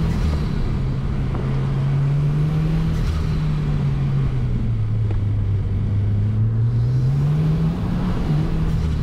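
2020 Subaru WRX's turbocharged flat-four engine driven hard, heard from inside the cabin. The revs hold, sag about halfway through, climb again and ease off near the end as the throttle is worked through a slalom.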